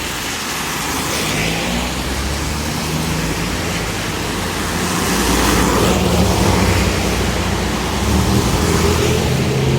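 Cars passing on a wet street in the rain: a steady hiss of rain and tyres on water, with engines swelling louder about halfway through and again near the end.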